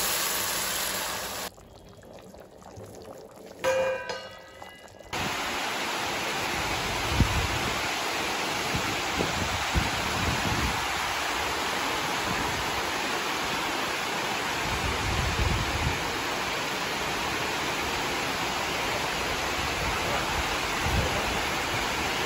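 Water poured into a pan of frying fish curry hisses for about the first second and a half. After a short quieter gap, heavy rain falls in a steady, even hiss, with a few low rumbles underneath.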